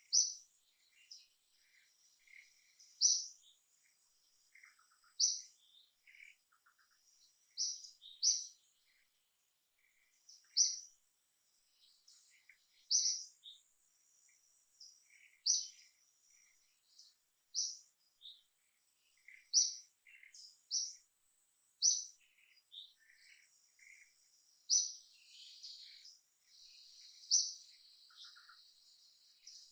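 A bird chirping: short, sharp, high-pitched notes repeated every two to three seconds, with softer chirps in between. A faint steady high insect whine runs underneath.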